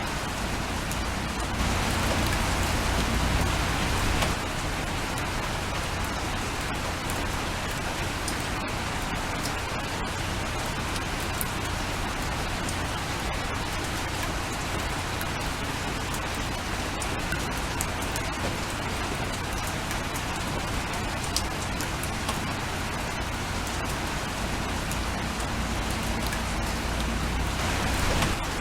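Steady rain falling: an even hiss with scattered sharp drop ticks, heavier for a couple of seconds near the start and again briefly near the end.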